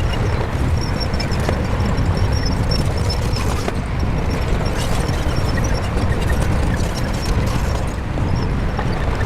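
Shantui crawler bulldozer's diesel engine running steadily at work, a constant low engine sound with no let-up.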